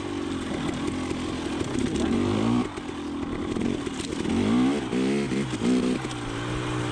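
KTM 300 XC TPI two-stroke dirt bike engine running on the trail, its pitch rising and falling with the throttle, with several quick revs up and back down in the second half before it settles to a steadier note.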